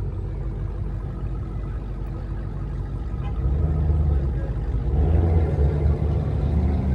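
Car engine idling with a low rumble, growing louder about halfway through.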